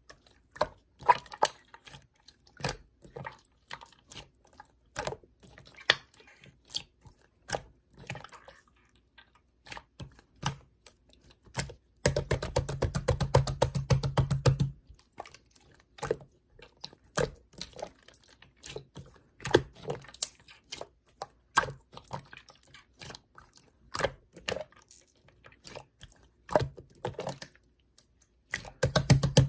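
Irregular light clicks and taps, with a dense rapid rattling about twelve seconds in that lasts nearly three seconds, and a shorter burst of it near the end.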